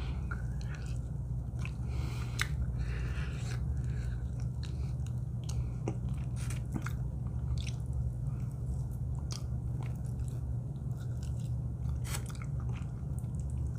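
A person biting and chewing a fried buffalo chicken wing, with scattered short crunchy clicks, over a steady low hum.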